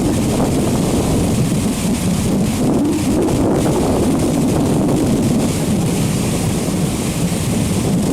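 Steady rumble and rush aboard a motor tour boat underway, with wind blowing on the microphone.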